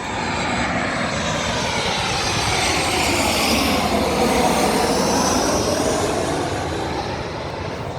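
Boeing 737 jet airliner flying over on approach. The engine noise swells to a peak about halfway through and then fades, with tones sliding down in pitch as it passes. The spotter thinks it sounds like a 737 MAX.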